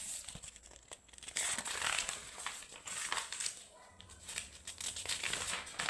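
Crinkling and rustling of something handled close by, starting about a second in and running in two stretches with a short lull between.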